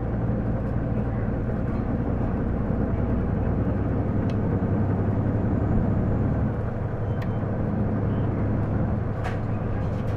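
Interior running sound of an Isuzu PJ-LV234L1 city bus: a steady low engine and road drone with a few faint rattles. It gets louder about halfway through, then eases off.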